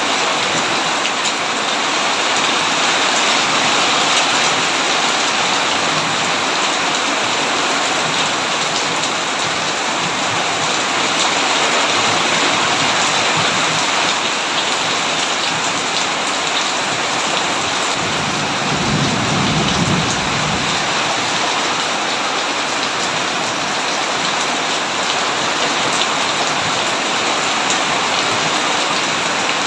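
Heavy rain falling steadily in a dense hiss, with a low roll of thunder rumbling for about two seconds a little past the middle.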